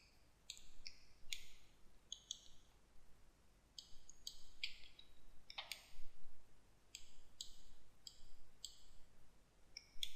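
Computer mouse buttons clicking: about a dozen short, crisp clicks at uneven intervals, some in quick pairs, the loudest about six seconds in.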